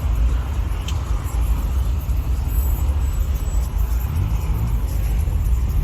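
A car running, a steady low rumble.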